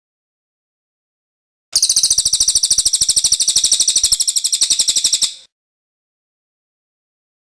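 A songbird's rapid, high-pitched trill: a burst of evenly spaced notes, about a dozen a second, starting nearly two seconds in and lasting about three and a half seconds.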